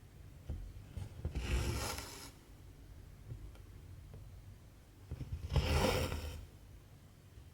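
Cotton embroidery thread pulled through cross-stitch fabric with a rasping, zipper-like sound, twice: once about a second in and again about five seconds in, each pull lasting about a second.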